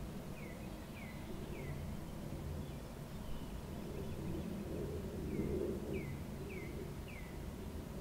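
A songbird repeating a short, falling whistled note about every half second: a run of four, a pause, then four more. Under it is a steady low rumble of wind.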